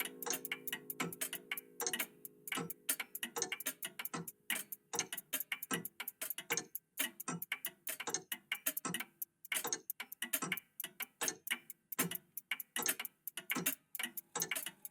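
Several old mechanical clocks ticking out of step with one another, many ticks a second in an uneven pattern. A clock chime rings on at the start and dies away over the first two or three seconds.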